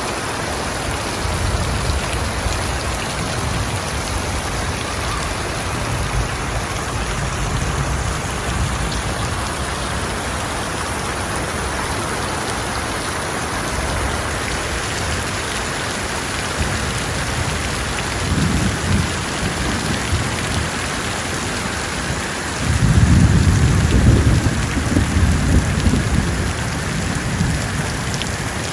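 Steady rain falling, a light shower hissing on surfaces. Low rumbles swell now and then, the loudest a few seconds before the end.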